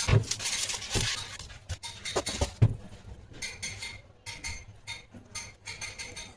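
Metal parts and tools of an electric marble cutter being handled during an armature change: a few sharp knocks, then a run of light clinks and clicks.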